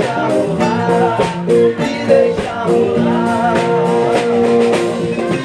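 Jam-session music: a voice singing over guitar, with a steady beat.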